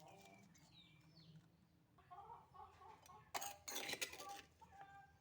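Chickens clucking faintly in short pitched calls, with a louder burst of noise about three and a half seconds in that lasts about a second.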